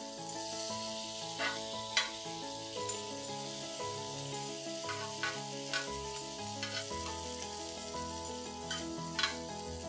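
Chicken pieces sizzling in a hot ridged grill pan as butter is brushed on, with a spatula scraping and tapping on the pan now and then. Soft background music plays under it.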